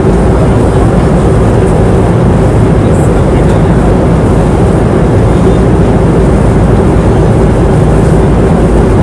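Airplane cabin noise in flight: a loud, even, deep rush of engine and air noise with a faint steady hum in it.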